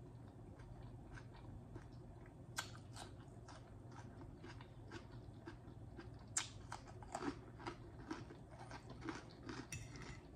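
Close-miked chewing: soft wet mouth clicks and smacks at an uneven rhythm, a few of them louder about two and a half and six seconds in, over a faint steady low hum.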